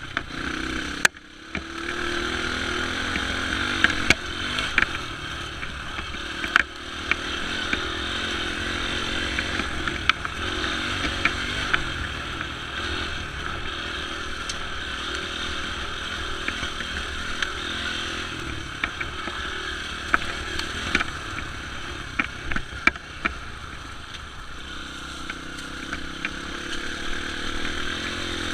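Dirt bike engine running while riding, with scattered sharp knocks and clatter over it; the engine sound drops briefly about a second in.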